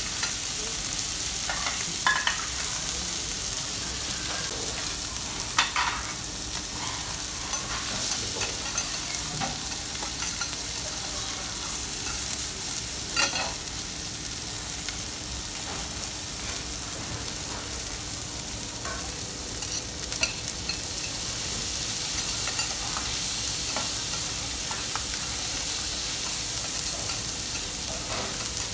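Steak sizzling on a teppanyaki iron griddle, a steady hiss, with a few sharp metal clicks of the chef's steel spatula on the plate.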